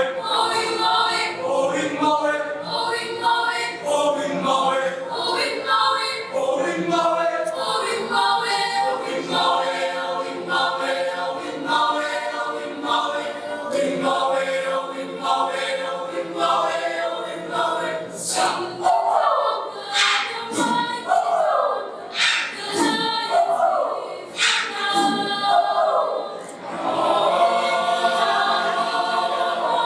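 A choir singing a cappella in held, multi-part harmony. Around two-thirds of the way in, the voices break into sliding pitch glides with sharp accents, then settle back into sustained chords near the end.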